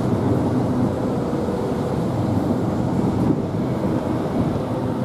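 Southeastern High Speed Class 395 electric train at the platform, giving a steady hum and rumble with a faint constant whine.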